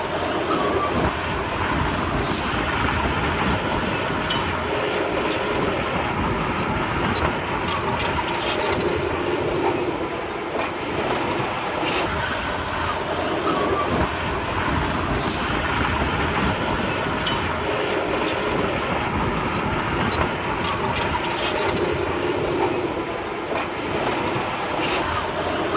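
Komatsu D31P crawler bulldozer working: diesel engine running steadily under a constant clatter of clanking and squeaking tracks, swelling and easing every few seconds.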